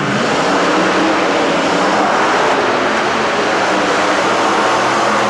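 Monster truck engines running loud and steady.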